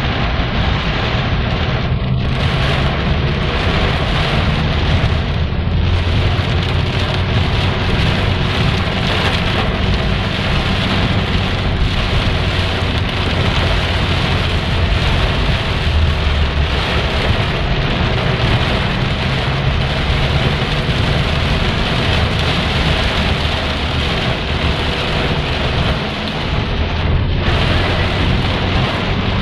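Heavy rain pouring steadily, a dense continuous hiss with a deep rumble underneath.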